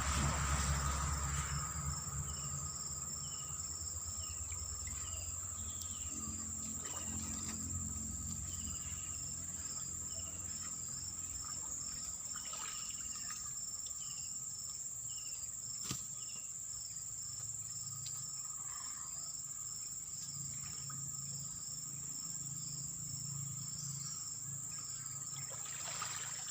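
Swamp insects shrilling steadily: a continuous high buzz with a fast pulsing cricket-like chirp over it, and runs of short chirping notes. A low engine sound dies away in the first couple of seconds, leaving a faint low hum.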